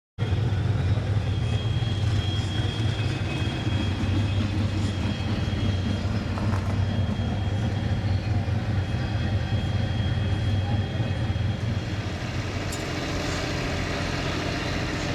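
Twin-turbo Mustang drag car's engine running at a steady idle, a deep even rumble with no revving and a faint high steady whine above it.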